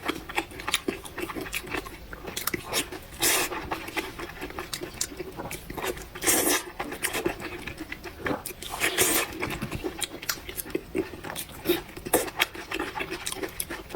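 Close-miked eating of noodles and fried pork tendon: steady chewing and crunching with many wet mouth clicks, and a few longer, louder bursts about 3, 6 and 9 seconds in.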